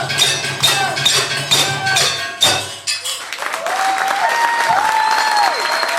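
Rhythmic metallic percussion, evenly spaced sharp strikes over a low drone, stops abruptly about two and a half seconds in. The audience then breaks into applause and cheering, with rising and falling calls over the clapping.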